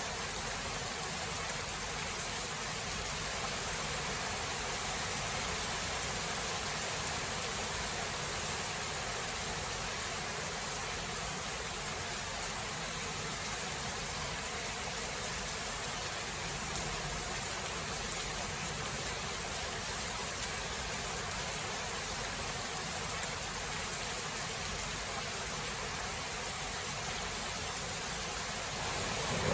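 Steady, even rain noise with no breaks. At the very end, thunder starts to break in.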